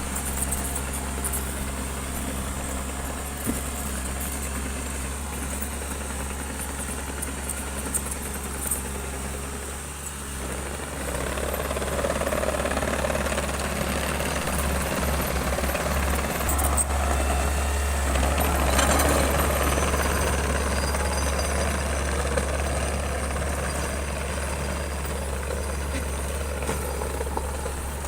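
Heavy diesel engine of a bulldozer running steadily, then working harder and louder for several seconds midway before easing back.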